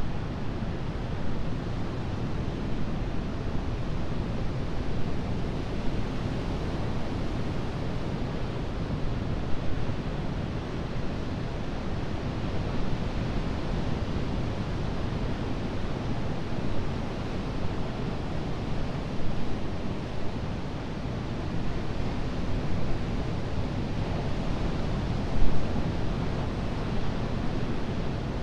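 Atlantic ocean surf washing steadily onto the beach, an even rushing noise that swells slightly now and then, with one louder surge near the end.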